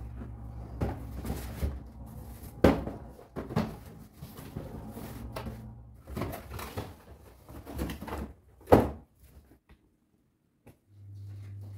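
Household tidying: a series of knocks and thuds from cabinet doors and objects being handled and set down, two of them much louder. Under them runs a steady low hum that cuts out about nine seconds in and comes back near the end.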